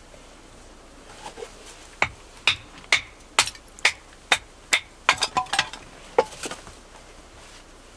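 Cooking utensils knocking: sharp knocks about two a second starting about two seconds in, then a quicker cluster and one last knock about six seconds in.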